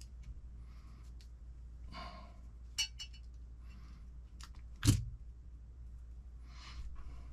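Small parts being handled and fitted during the assembly of an RC10T transmission: light clicks and rustles, a sharp ringing click near the middle and one louder knock about five seconds in, over a low steady hum.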